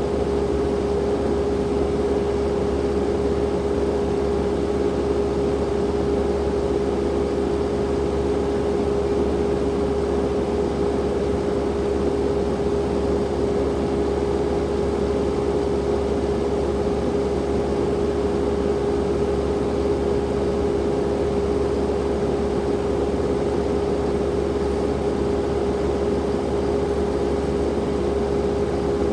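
Skid steer engine running at a steady speed, a constant hum with one strong held tone over a low rumble.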